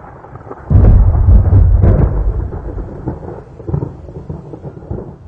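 Thunder: a sudden loud crack about a second in, then a heavy deep rumble that rolls on in uneven waves and slowly fades.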